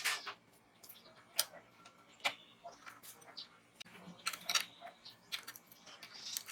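Scattered light clicks and taps at irregular intervals, with no motor running.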